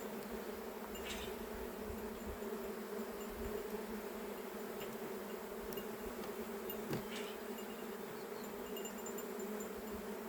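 Honeybees humming from an open hive: a steady, even drone of many wingbeats. Two light clicks sound over it, about a second in and again about seven seconds in.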